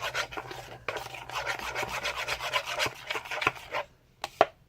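A spoon scraping around a bowl in quick, uneven strokes, stirring a thick mix of glue, colourant and moisturizer for slime. The stirring stops about four seconds in, leaving a few light clicks.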